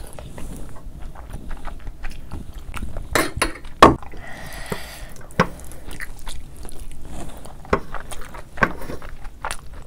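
Close-miked chewing and mouth sounds of someone eating, a run of short wet clicks with a sharp louder click just before four seconds in.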